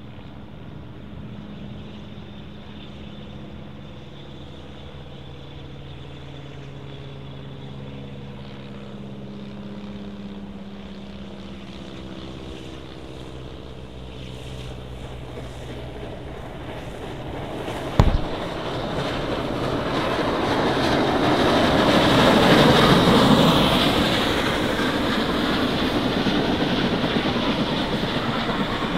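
Steam-and-diesel-hauled passenger trains approaching: a distant engine drone whose tones slowly fall in pitch. About two-thirds of the way in comes a sharp thump, then the sound swells into the loud rumble of the train passing close, peaking and easing a little as the carriages roll by.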